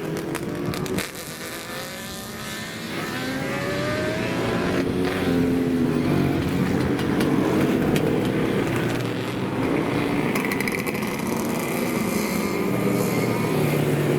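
Older motorcycle engines running and revving, their pitch climbing and falling; the sound drops away about a second in, then builds back up and stays loud.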